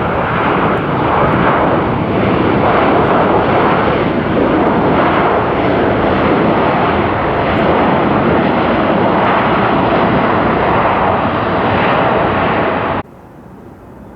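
Loud jet engine noise of an airliner passing close by, steady and dense throughout, cutting off suddenly near the end.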